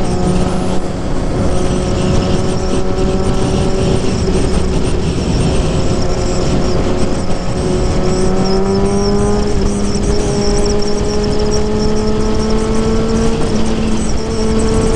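Suzuki GSX-R750 inline-four engine running at a steady, fairly high note through its exhaust. About halfway in, the pitch eases slightly, then climbs gradually and levels off.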